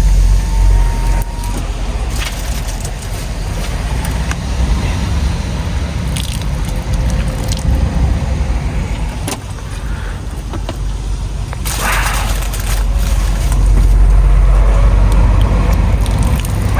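A vehicle engine running with a steady low rumble, with scattered clicks and knocks over it. An electric whine from a motor stops about a second in.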